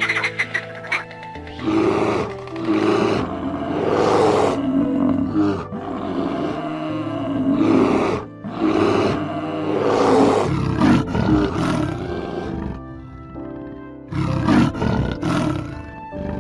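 A large wild animal roaring again and again, about eight rough calls a second or two apart, over background music with steady held tones.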